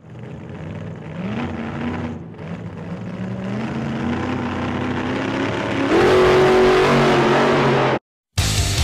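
A car engine accelerating hard, its pitch climbing in steps and growing louder, then holding high before cutting off suddenly.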